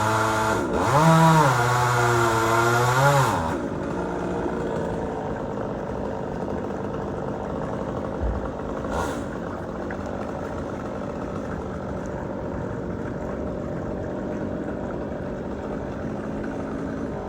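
Chainsaw running with its pitch wavering as the throttle is worked, then cutting off about three and a half seconds in. A steadier engine keeps idling underneath, with a single knock near the middle.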